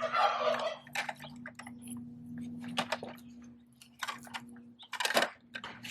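Plastic clicks and knocks of a Bruder toy garbage truck being handled, starting with a short scrape, then scattered sharp clicks at uneven intervals over a faint steady hum.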